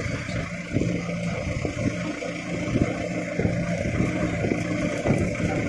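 Kubota MU4501 tractor's four-cylinder diesel engine running steadily while it pulls a trolley heavily loaded with stones, with scattered knocks and rattles from the moving rig.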